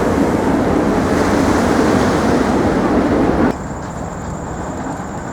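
Steady rushing outdoor noise that drops suddenly about three and a half seconds in, leaving a quieter hiss with a faint, steady high whine.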